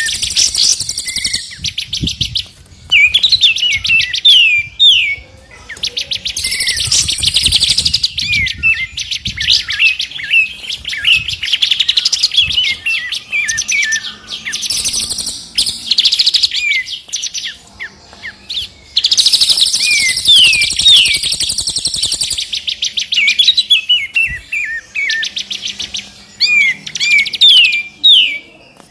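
Recorded songbird song from several birds mixed together: fast buzzy trills alternating with quick, sharply falling whistled notes, in continuous bursts with brief gaps.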